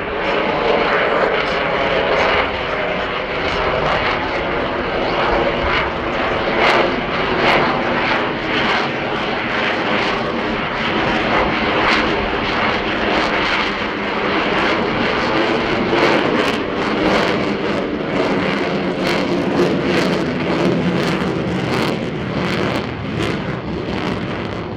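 An RAAF F-35A Lightning II's single Pratt & Whitney F135 turbofan, loud and continuous during the display, rising and falling a little. It has a rough, crackling edge that is strongest in the later part.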